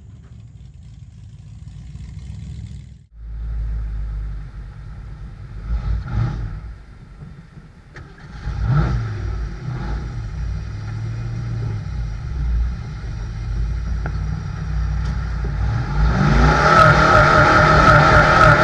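Old Ford mud truck's engine running under load, revving up in short bursts and then rising to a loud, sustained rev near the end.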